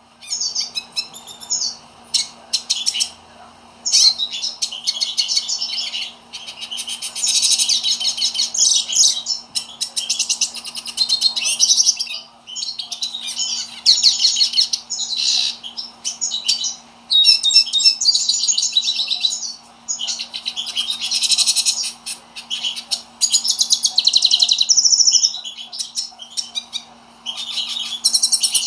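Hooded siskin (Brazilian pintassilgo) singing vigorously: long, fast twittering, warbling phrases with brief pauses between them. A faint steady hum sits underneath.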